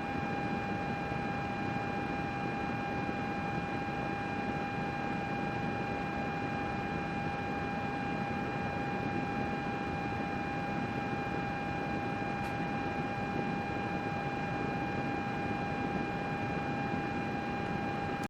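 Computer running steadily: the even whoosh of its cooling fans with a steady whine at one pitch and fainter higher tones above it.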